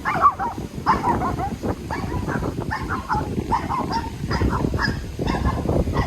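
Animals calling over and over in short, pitched cries, several a second, over a steady low rumble.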